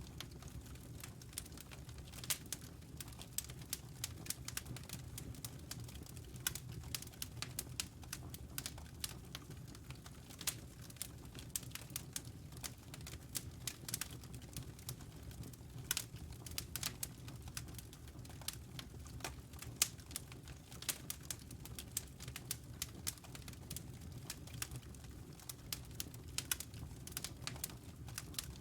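Wood fire crackling in a fireplace: irregular sharp snaps and pops, several a second, over a steady low rumble.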